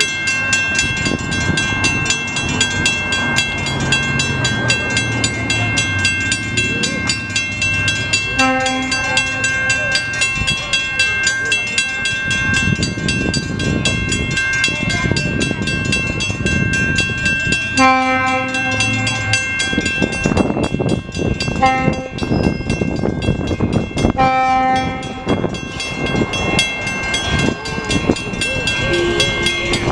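Train passing with a continuous rumble and wheel clatter, and a steady high-pitched tone throughout. The locomotive horn sounds four chord blasts, long, long, short, long: the standard grade-crossing warning.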